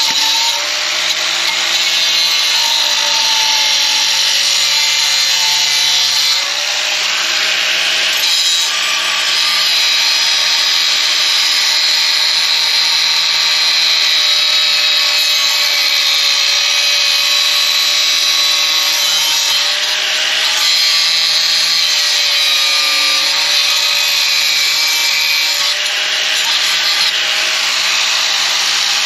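Power saw cutting through a section of exhaust pipe. The motor runs steadily under load with a wavering whine and a harsh grinding rasp, easing briefly a few times.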